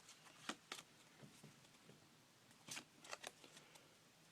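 Trading cards handled and flipped through by hand: faint, scattered flicks and clicks of card against card, coming in small clusters.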